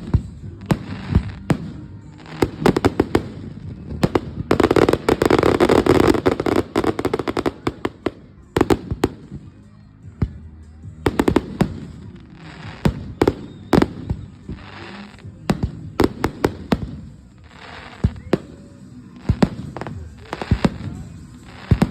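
Fireworks going off: a string of sharp bangs and cracks at uneven intervals, with a dense burst of crackling about five to seven seconds in, and short hissing stretches between later bangs.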